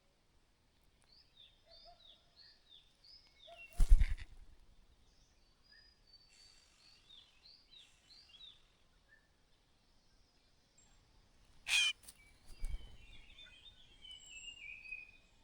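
Bird calls: rows of short, high chirps repeated about twice a second, and a falling run of notes near the end. Two loud sudden noisy bursts come about four and twelve seconds in.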